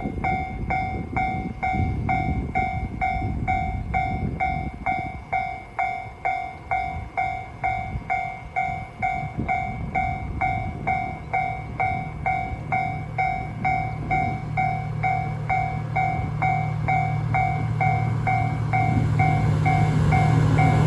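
Railway level-crossing warning bell ringing steadily, about two pulses a second. From about halfway a train's low engine drone grows louder as it approaches.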